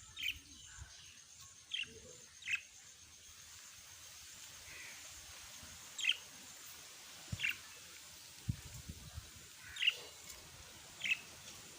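Small pet parrots giving short, sharp chirps, each a quick falling note, about seven of them at irregular gaps of one to three seconds.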